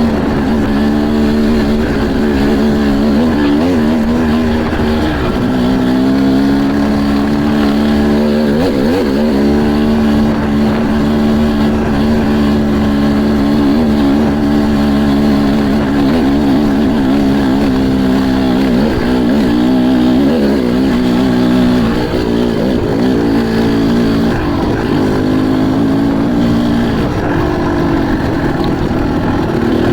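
Motocross dirt bike engine running steadily at high revs, its pitch dipping and picking up again several times as the throttle is eased and reopened.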